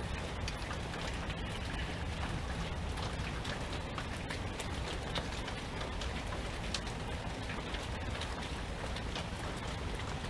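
Steady rainfall, with many individual drops ticking on surfaces and a low rumble underneath.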